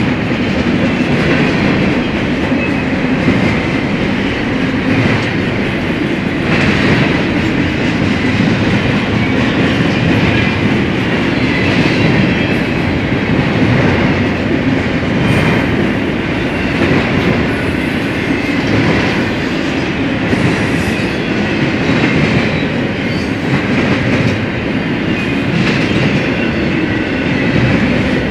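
Freight cars of a BNSF train rolling past at track speed: a steady rumble of steel wheels on rail.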